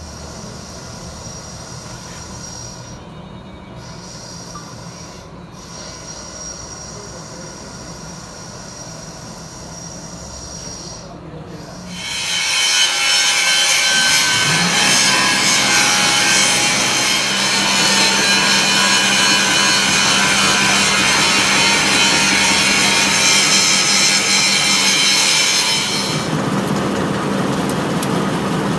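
Workshop machine running with a steady hum. About twelve seconds in, loud, harsh metal-working noise (cutting or grinding) starts and lasts about fourteen seconds, then stops while the machine keeps running.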